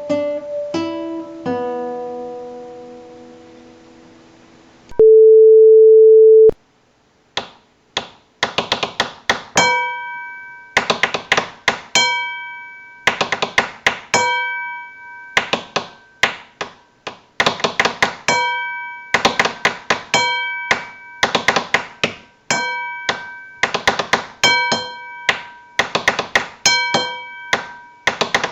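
Experimental home-recorded music: a few plucked guitar-like notes ring out, then a loud, steady electronic tone sounds for about a second and a half and cuts off. After that comes a long run of rapid, irregular taps, each ringing briefly with the same bell-like pitch.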